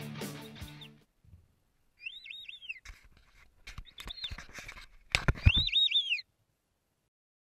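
Background music fades out in the first second. Then a bird calls three times, each a quick run of three or four high, arched whistled notes, among scattered knocks, with a cluster of loud thumps just before the last call. It all cuts off suddenly about six seconds in.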